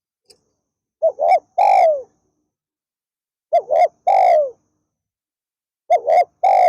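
Spotted dove cooing: three phrases a couple of seconds apart, each of two short coos followed by a longer coo that falls in pitch.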